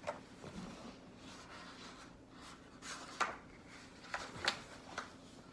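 Picture book being handled, with faint paper rustling and several short scrapes and taps as a page is turned.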